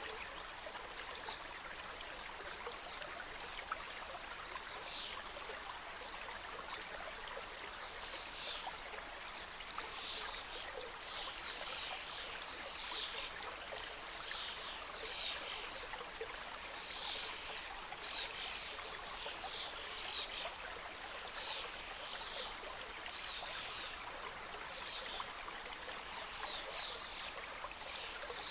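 Mountain stream rushing and trickling over rocks, a steady water sound, with a bird calling over it in short high chirps repeated many times, starting a few seconds in.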